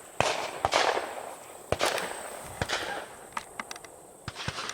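Several distant shotgun shots from other dove hunters around the field, irregularly spaced sharp reports each with a trailing echo.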